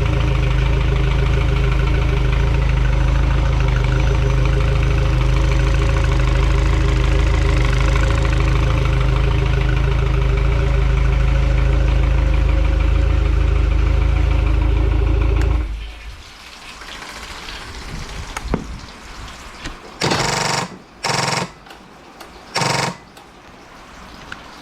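A 2003 Mercury 115 hp EFI four-stroke outboard running steadily, then shut off suddenly about sixteen seconds in. Afterwards the background is much quieter, with a few clicks and three short, loud hissing bursts near the end.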